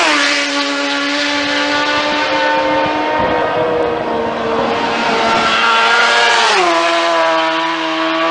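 Superbike racing motorcycles at full speed, their high engine note running loud and steady. The pitch drops sharply at the start and again about six and a half seconds in as the bikes go by.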